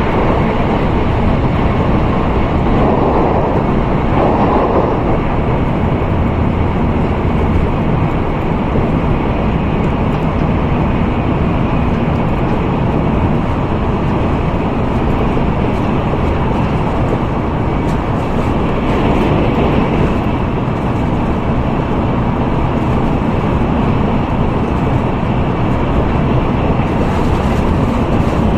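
N700A Tokaido Shinkansen running at speed, heard from inside the passenger car: a steady, continuous rumble of the train in motion, swelling slightly now and then.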